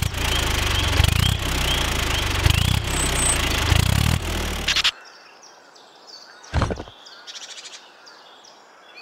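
An engine running loudly with a low pulsing rumble for about five seconds, with birds chirping over it, then cutting off abruptly. After that only faint bird chirps and one short thump remain.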